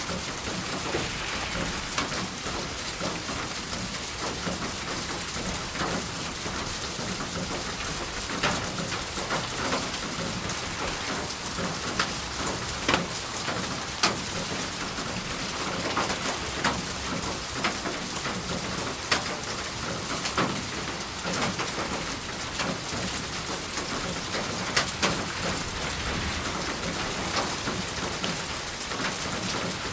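Steady rain falling on a surface, an even hiss with scattered louder individual drops striking close by.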